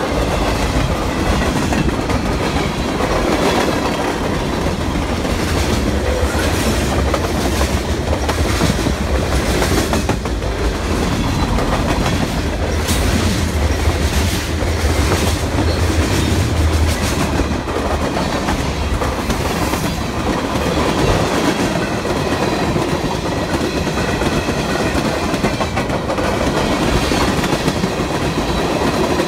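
CSX freight train's cars rolling past at trackside, steel wheels rumbling and clacking steadily over the rails. The deep rumble eases about two-thirds of the way through as the cars change from covered hoppers to tank cars.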